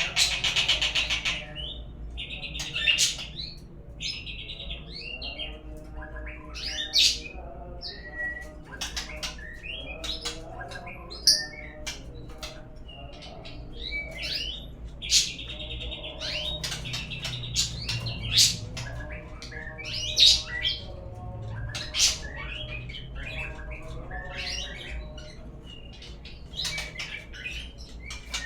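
Murai songbird song, a lure recording for getting caged birds to sing: a varied run of loud whistles, chirps and trills. A buzzy rasp comes once right at the start and again about halfway.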